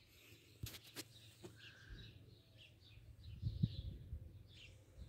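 Small birds chirping faintly in short repeated calls. Two sharp clicks come about a second in, and a low rumbling grows louder in the second half.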